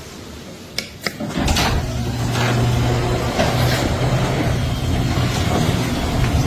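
Garage door opener: two clicks, then about a second and a half in the motor starts and runs steadily with a low hum as the door travels.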